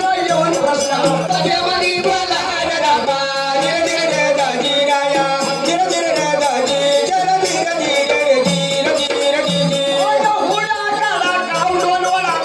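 Marathi kalgi folk song: a voice singing over a steady held drone and repeated percussion strokes.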